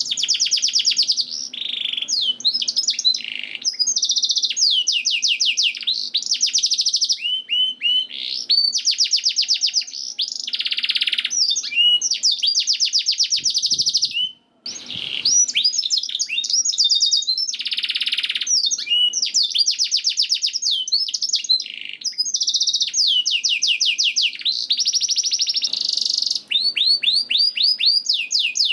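Domestic canary singing a long, continuous song of fast trills and rolls: phrase after phrase of rapidly repeated high notes, with a brief pause about halfway through.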